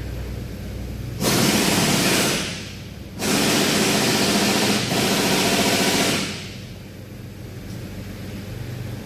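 A compressed-air tool running in two bursts, one of about a second and a half and a longer one of about three seconds, each starting and stopping abruptly, over a steady low hum.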